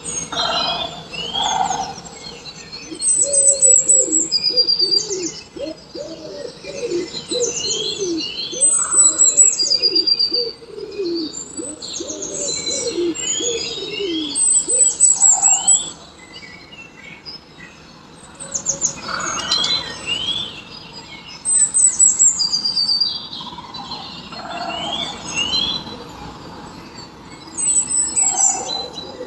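Several birds chirping and calling over one another, with bright trills recurring about every six seconds. A lower run of quick falling notes comes through in the first half.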